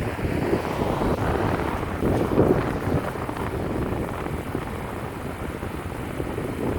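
Wind buffeting the microphone: a gusty, rumbling rush that swells and eases.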